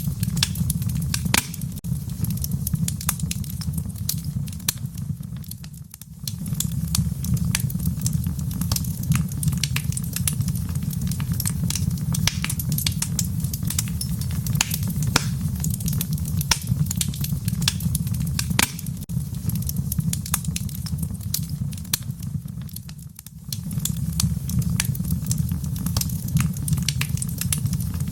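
Wood fire crackling in a fireplace: irregular sharp pops and snaps over a steady low rumble of flame. The rumble drops away briefly twice, about six seconds in and again near twenty-three seconds.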